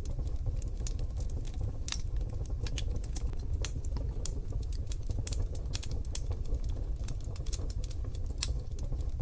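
Wood fire in a wood-burning stove crackling, with many irregular sharp pops and snaps over a steady low rumble.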